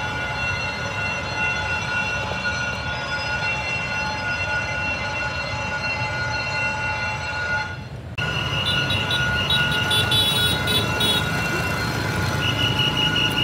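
Passenger train rolling through a street level crossing, a steady high squeal over the rumble of the wheels. About eight seconds in the sound breaks off briefly, then higher tones come and go in short pulses over the same rumble.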